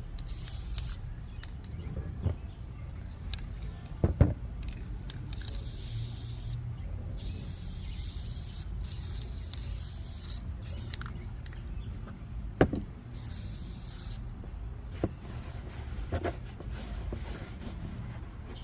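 Aerosol spray paint can spraying in about five separate bursts of hiss, each one to two seconds long, with a few sharp knocks in between over a low steady rumble.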